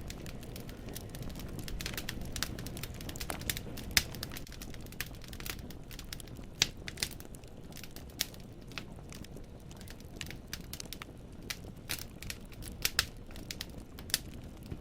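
Wood fire in a fireplace crackling: burning logs popping and snapping at irregular intervals over a steady low rush of flame.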